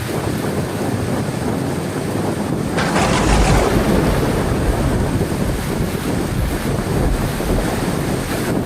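Heavy rain falling steadily, with a thunderclap about three seconds in that rumbles deep and slowly dies away over several seconds.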